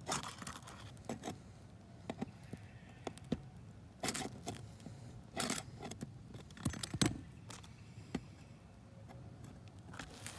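Scattered scrapes, clatters and knocks of hand work on a roof during a repair, with louder bursts about four, five and a half and seven seconds in.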